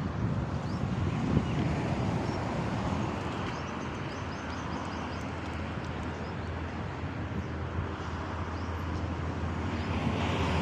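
Steady outdoor background noise with a constant low hum, and a few faint high chirps in the middle.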